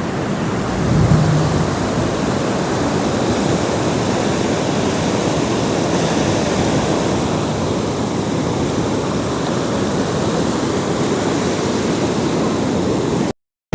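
Steady rush of sea surf mixed with wind on the microphone, swelling slightly about a second in and cutting off abruptly to silence just before the end.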